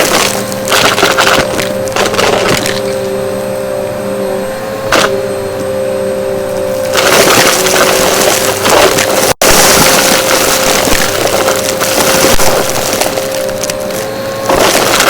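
A vacuum cleaner running with a steady motor whine, while dry debris crackles, crunches and rattles up through it in bursts. The sound cuts out for an instant about nine seconds in.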